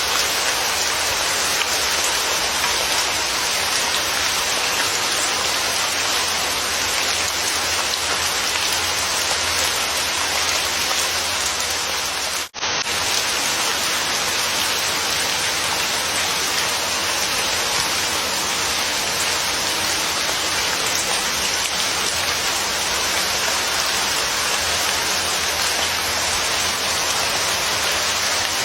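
Steady heavy rain, an even hiss of water, with a split-second dropout about halfway through.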